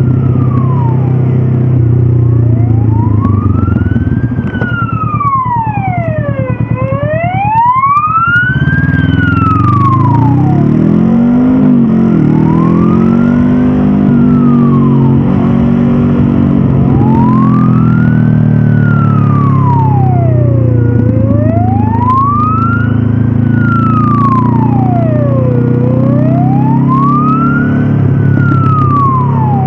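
A wailing siren rising and falling slowly, about once every five seconds, over the Honda CB500F's parallel-twin engine running underneath. The engine eases off about five seconds in and pulls back up a few seconds later.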